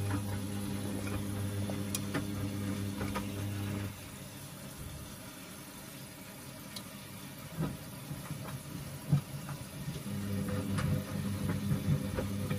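Washing machine drum motor running with a steady hum, stopping about four seconds in, then a pause with a few scattered knocks before the motor starts again near the end: the drum turning, resting and turning again during the wash.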